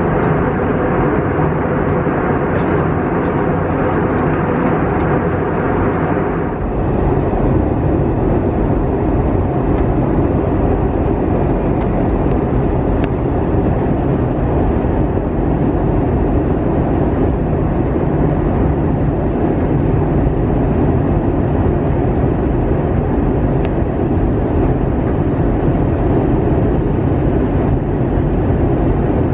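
Steady rumble of an Airbus A320-200's engines and rushing air heard inside the passenger cabin. The higher hiss drops away about six and a half seconds in, leaving a lower, even rumble.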